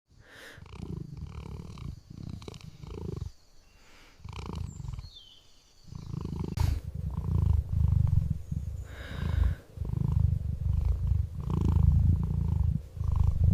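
A cat purring, a low rumble that comes and goes in stretches of a second or more with short pauses between.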